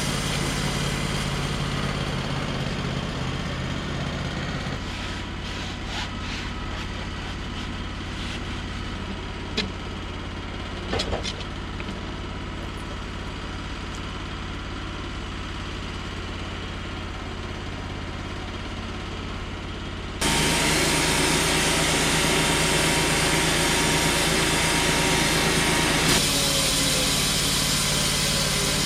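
An engine running steadily, with a few faint clicks; about two-thirds of the way through a much louder, noisy sound comes in suddenly and carries on to the end.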